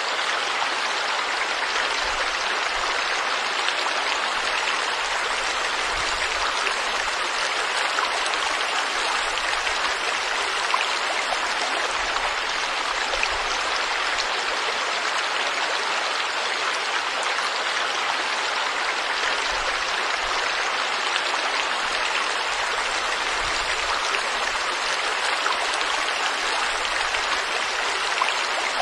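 Stream water flowing steadily, an even rushing hiss with no breaks.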